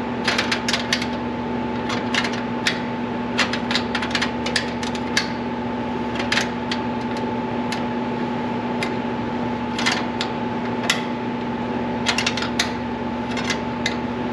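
Irregular metallic clicks and taps of a wrench working on brake line fittings, some in quick clusters, over a steady humming drone with a constant tone.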